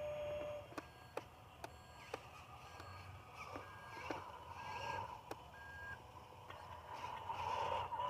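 Short electronic reversing beeps from a radio-controlled Mercedes dump truck, sounding a little under once a second, with sharp clicks in the first half and a steady low hum underneath.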